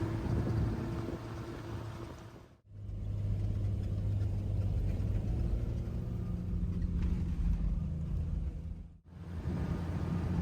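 Jeep Grand Cherokee running on the road, a steady low engine and road hum. The sound drops out abruptly twice, about a third of the way in and near the end.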